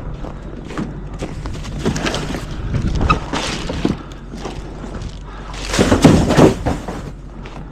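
A series of thumps and knocks, the loudest about six seconds in, over a low steady rumble.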